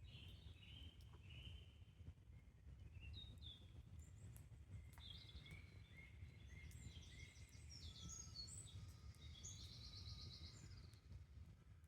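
Faint woodland birdsong: several birds chirping and trilling, busiest in the second half, with a fast trill near the end, over a steady low rumble and a few faint crackles from the campfire.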